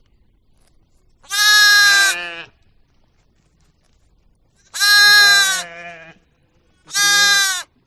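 An animal calling three times: loud, pitched calls of about a second each, separated by a few seconds of quiet, each dipping slightly in pitch at the end.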